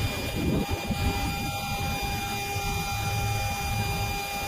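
Airbus A330 flight-deck noise in the initial climb just after takeoff, with the engines still at takeoff thrust: a steady rumble and rush of engines and airflow, with a few faint steady whine tones over it.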